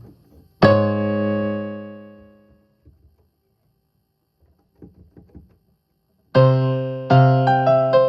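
Electronic keyboard playing in a piano-like voice: one chord struck about half a second in that fades away over a couple of seconds, a few faint clicks around five seconds, then a string of notes from about six seconds on.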